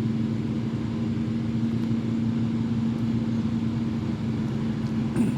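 An engine running steadily at idle: an even, low hum that holds the same pitch throughout.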